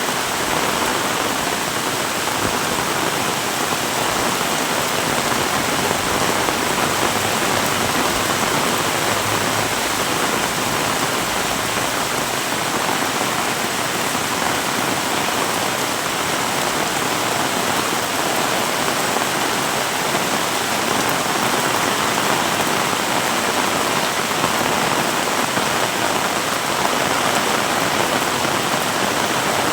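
Heavy rain falling steadily, a dense even hiss of downpour with no letup.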